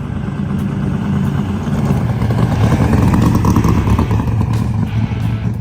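A motor vehicle's engine running with a low rumble that swells toward the middle and then eases off, as of a vehicle driving past.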